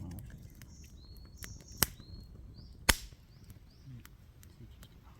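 Two sharp chops of a blade into firewood, about a second apart, with small birds chirping in the background.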